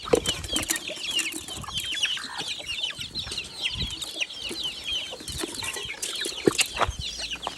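A brood of chicks peeping continuously, many short, high, falling peeps a second, with a few sharp taps or knocks among them.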